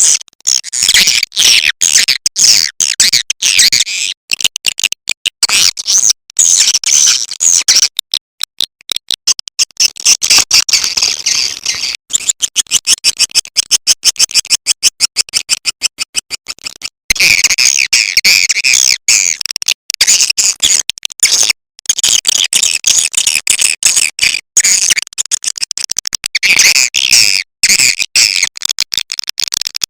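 Recorded edible-nest swiftlet calls, a lure sound played to attract swiftlets into a nesting house: dense, high twittering and chirping, chopped by rapid gaps. Through the middle it turns into a fast, regular stutter of short pulses, then the twittering comes back steadier about halfway through.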